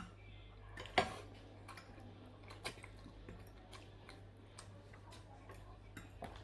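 Eating sounds: sporadic light clicks of cutlery against a plate with quiet chewing, the loudest click about a second in.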